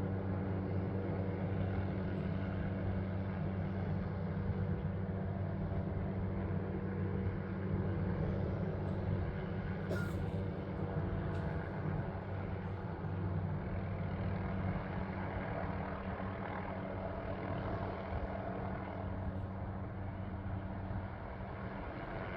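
Helicopter running steadily with an even, deep drone, easing slightly over the second half. A short click sounds about ten seconds in and another at about eleven and a half seconds.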